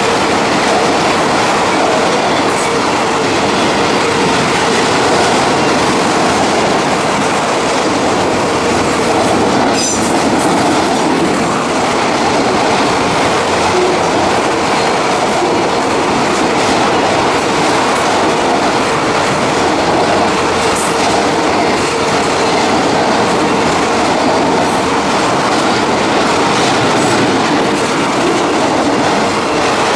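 Freight train of autorack cars rolling steadily past, its steel wheels running on the rails in a loud, even noise.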